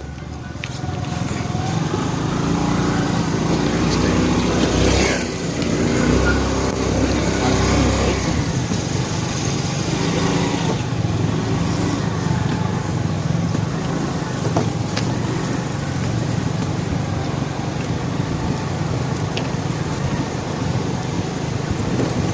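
Motorcycle engine running while being ridden, its pitch rising and falling with speed.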